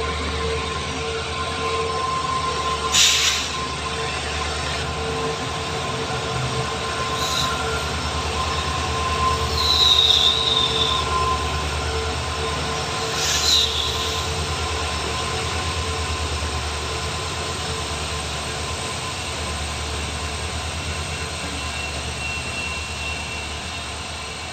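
A train running past, with a high wheel squeal about ten seconds in and a few sharp metallic clanks from the wagons.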